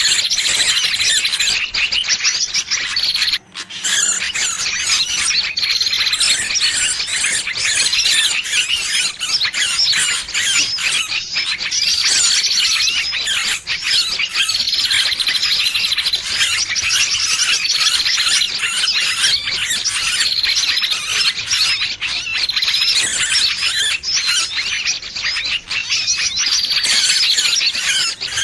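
Small birds' distress calls: a dense, continuous stream of high-pitched squeals and chirps, the 'trapped bird' (burung kejepit) sound used as a lure to draw in other birds. A brief break comes about three and a half seconds in.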